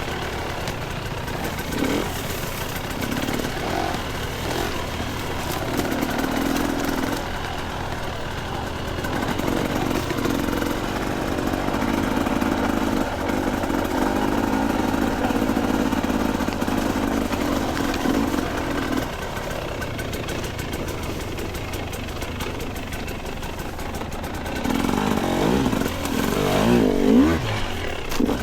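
Two-stroke dirt bike engine running, mostly at low, steady revs, with the revs rising and falling several times, most strongly near the end.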